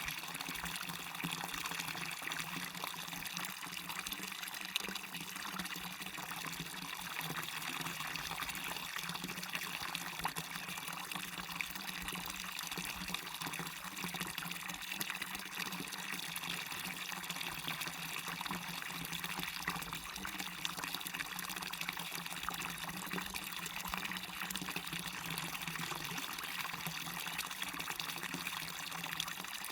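Small waterfall splashing and running steadily, a constant even rush of falling water that is strongest in the higher pitches.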